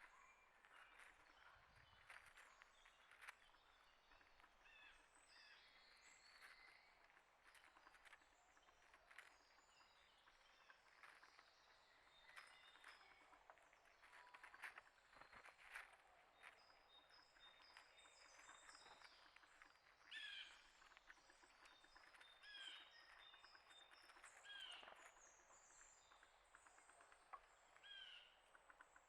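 Faint chorus of small wild birds chirping and calling, with scattered ticks. In the second half one bird gives a short falling call four times, a couple of seconds apart.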